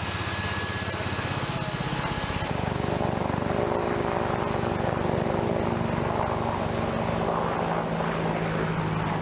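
Aircraft engines running on a flight line, a steady loud drone with a fast low pulsing beat. The sound changes abruptly about two and a half seconds in.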